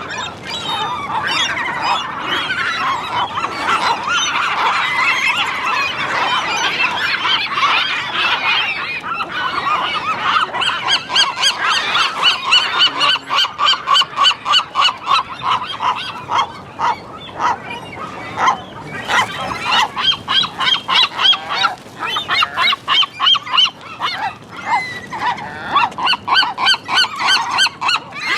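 A flock of gulls calling loudly together: many overlapping squawks, with runs of rapid repeated notes, several a second.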